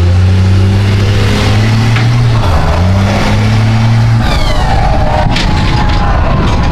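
Mega truck engine running loud under load, its pitch shifting about halfway through, then dropping off into a rougher, noisier sound near the end.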